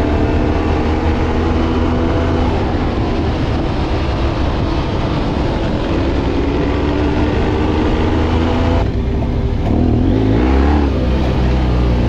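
Motorcycle engine running as the bike is ridden, a steady engine note with heavy low rumble; about nine seconds in the sound changes and the pitch briefly rises and falls.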